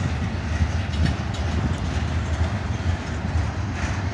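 Double-stack intermodal well cars rolling past: steel wheels on rail give a steady low rumble with a hiss over it and a few faint clicks.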